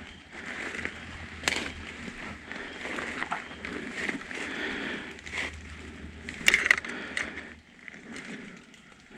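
Footsteps crunching through dry leaf litter and brush, with several sharp twig snaps, the loudest a quick pair about six and a half seconds in.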